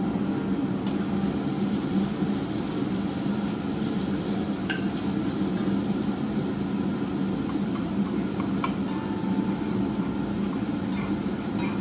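Chopped onion and garlic sizzling in hot coconut oil in a pan, stirred now and then with a spatula that gives a few light clicks against the pan. A steady low hum runs underneath.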